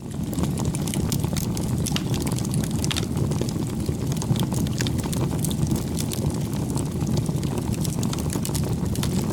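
Wood bonfire burning: a steady low rumble with frequent small sharp crackles and pops from the burning wood.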